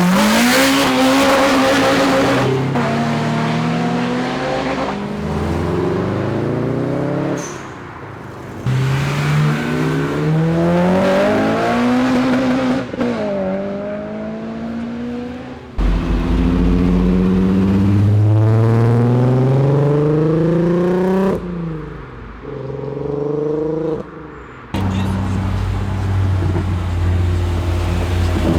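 Performance cars accelerating hard one after another, engines revving up through the gears with a sudden drop in pitch at each shift.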